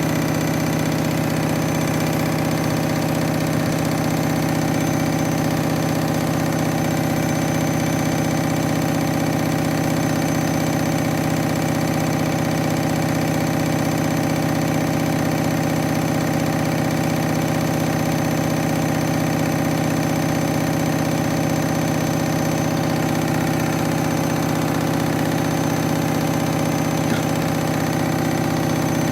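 Washing machine motor and drum running steadily with a heavy, unbalanced load of wet towels: a constant motor hum and whine at an even speed.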